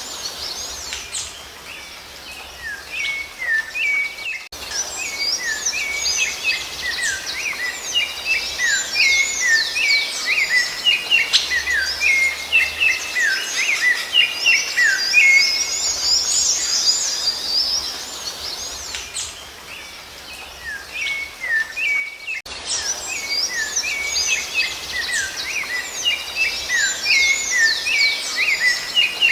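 Songbirds chirping and singing in a dense, continuous chorus of quick high notes, easing off briefly twice before picking up again.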